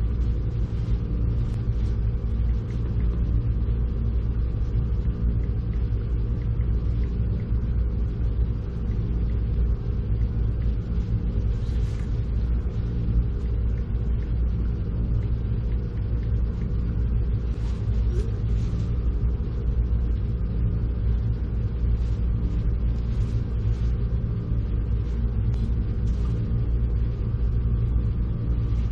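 Steady low mechanical rumble with a constant hum, like a motor or machine running without changing speed, with a few light clicks and rustles over it.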